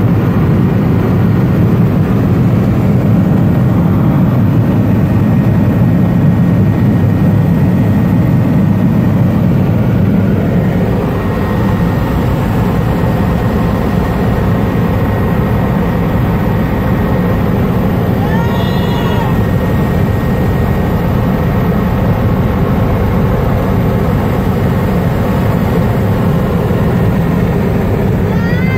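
Helicopter cabin noise heard from inside: the steady, loud low drone of the engine and rotor. About two-thirds of the way through, a brief high pitched sound rises and falls over it.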